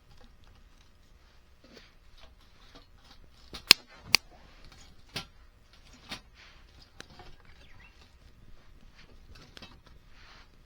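Dry firewood cracking sharply about five times, the two loudest cracks close together, with faint crackling in between.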